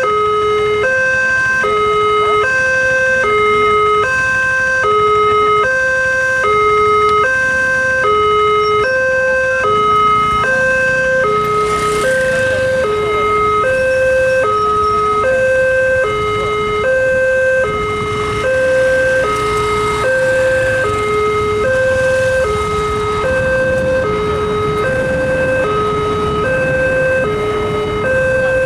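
Railway level-crossing warning alarm sounding continuously as a two-tone chime, a higher and a lower note alternating about once a second. It signals that a train is approaching and the crossing is closed.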